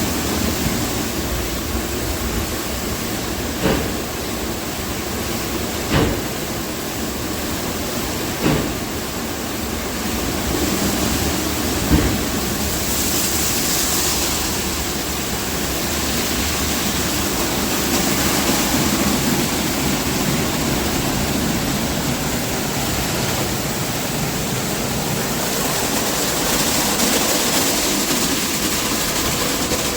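Automatic car wash running over the car: a steady rush of spraying water and machinery. Four short thumps come in the first twelve seconds, and the hiss grows brighter in the second half.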